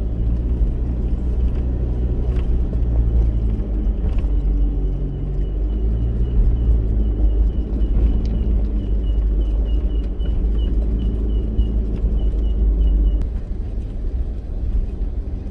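Four-wheel-drive vehicle driving with its engine running and a deep rumble, with a light regular ticking, about two a second, through the middle. The deepest rumble drops away near the end.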